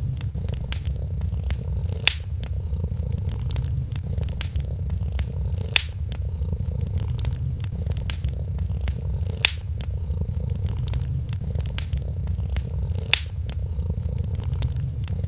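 A cat purring in a steady low rumble, mixed with the crackle of a wood fire: frequent small snaps and a sharper pop every few seconds.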